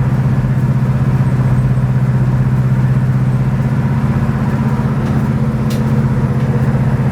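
Chevelle wagon's 427 big-block V8 cruising at highway speed in fifth gear, a steady low drone at about 1,900 rpm, heard from inside the cabin.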